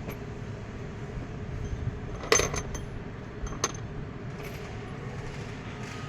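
Metal clinking as tools or parts are handled: one sharp clink with a short ring a little over two seconds in, a few lighter ticks, then a second clink about a second later, over a steady low hum.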